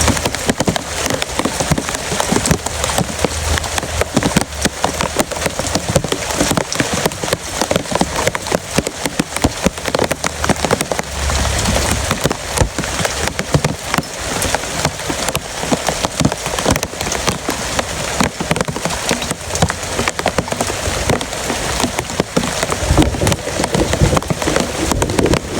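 Heavy rain falling steadily, a dense patter of drops striking a surface, with a low rumble about eleven seconds in and again near the end.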